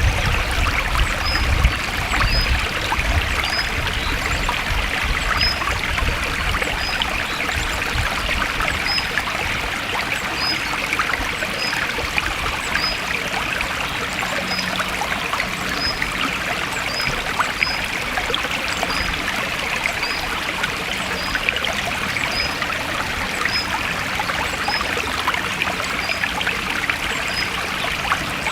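Forest stream flowing and trickling in a steady rush of water. A short, high chirp repeats about once a second above it.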